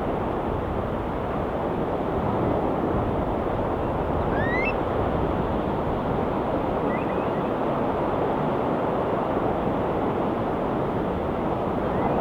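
Ocean surf washing steadily as an even rush with no breaks. A bird gives a short rising call about four seconds in, and fainter chirps follow a few seconds later.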